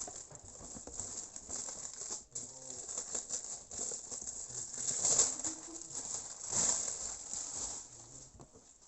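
Packaging rustling and crinkling as the wrapped drill box is handled, in irregular surges that are loudest about five and six and a half seconds in, then fading.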